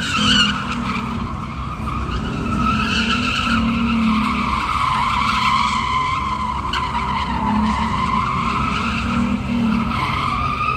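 A car sliding in a drift, its tyres squealing with a pitch that wavers up and down over the engine running hard.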